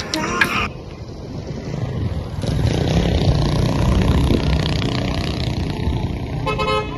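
A motor vehicle running with a loud, steady rumble, and a horn toots near the end.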